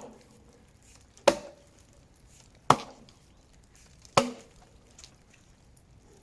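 Axe chopping into dead ash wood: three sharp blows about a second and a half apart, each with a short ring.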